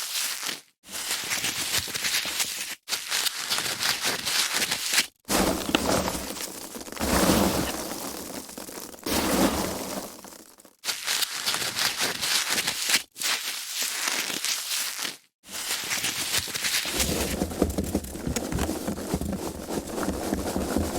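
Foam packaging being handled: dense crackling and rustling in stretches of a few seconds, with short silent breaks between them.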